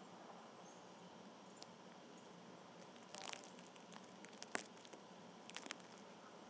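Faint light taps and clicks in a few short clusters, with one sharper click about four and a half seconds in, over a near-quiet background hiss.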